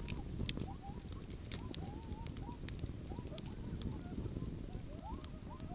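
A distant pack of coyotes yipping and howling in a chorus of many short, rising-and-falling yips. A campfire crackles with scattered pops close by.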